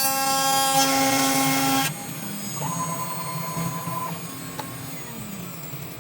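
CNC machine motors whining in several steady tones, cutting off abruptly about two seconds in. A quieter low hum follows, with a short higher whine in the middle.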